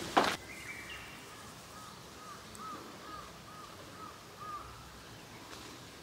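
Quiet outdoor ambience with a bird calling: a run of short, arched notes, about two a second, for a few seconds in the middle. One last crunch of a footstep on gravel at the very start.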